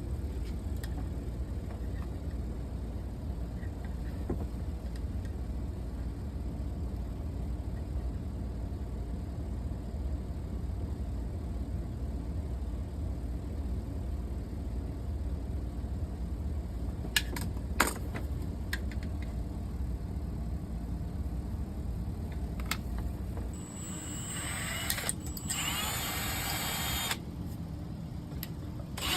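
Steady low rumble with two sharp clicks near the middle; about three-quarters of the way in, a small power tool's high whine runs for about three seconds.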